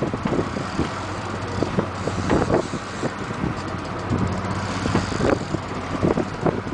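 A boat engine running steadily under a rush of wind noise, with irregular knocks and thumps scattered through it.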